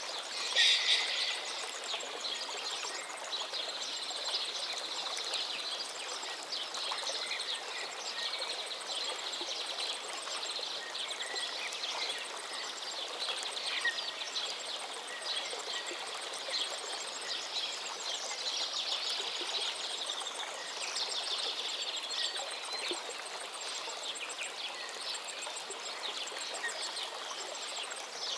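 Many birds chirping and twittering over a steady, water-like hiss, with one louder call about half a second in.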